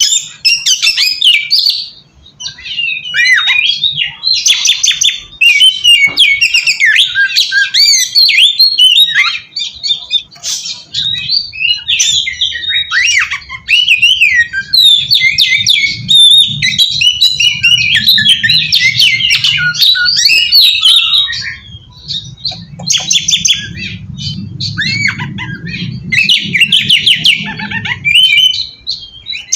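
Oriental magpie-robin (kacer) singing a long, loud, rapidly varied song of whistles, trills and harsher notes, broken by a few short pauses. A faint low hum sits behind it through the second half.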